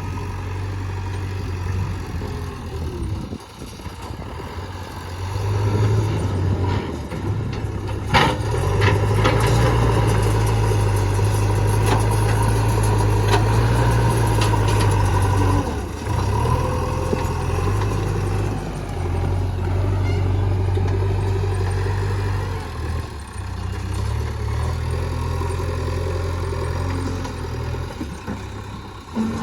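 JCB backhoe loader's diesel engine working under load while digging and loading soil, its hum rising and easing as the bucket works, with a few sharp knocks about eight seconds in.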